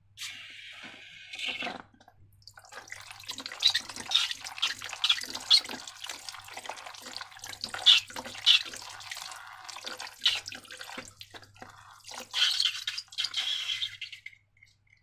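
Slime being squished and worked by hand: a quick hiss at first, then a long run of wet, sticky squelches and small crackling pops, some louder than others.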